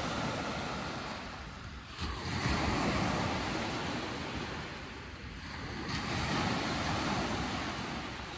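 Lake Ontario waves washing onto the shore, swelling about two seconds in and again about six seconds in.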